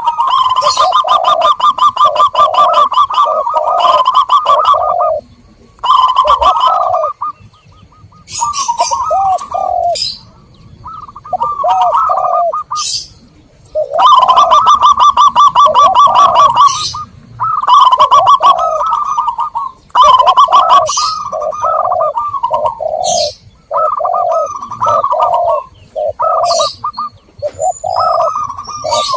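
Zebra doves and spotted doves cooing: a run of rhythmic phrases of repeated coo notes over a rapid rolling trill, broken by short pauses every few seconds.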